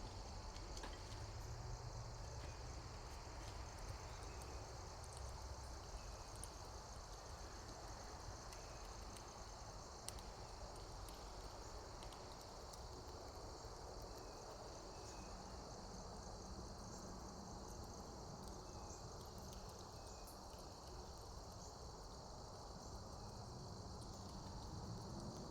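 A steady, high-pitched insect chorus, with a few faint short chirps and a low rumble beneath it.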